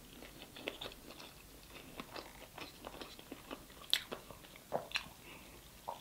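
Close-miked chewing: soft, wet mouth clicks and smacks, followed in the second half by sips and swallows from a plastic cup, the strongest clicks coming around four to five seconds in.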